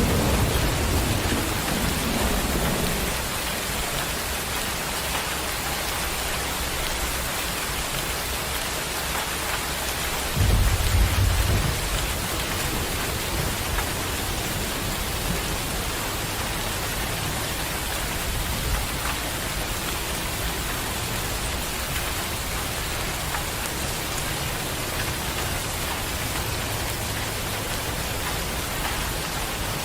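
Steady rain with thunder: a low rumble at the start that fades over about three seconds, and a louder, deeper rumble about ten seconds in that lasts a second or two.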